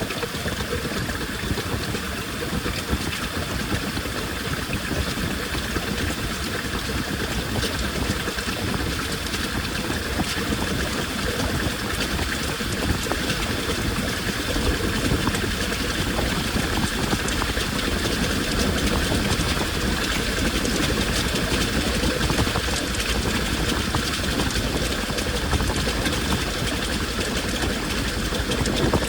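Washing machine running a wash cycle: its motor running steadily with water churning in the drum.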